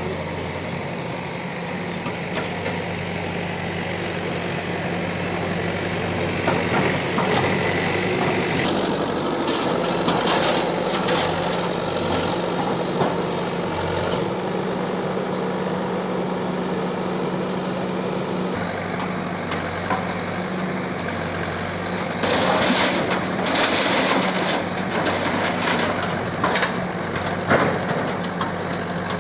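Bulldozer's diesel engine running steadily at demolition work, with two stretches of sharp cracking and clattering as the building is broken up.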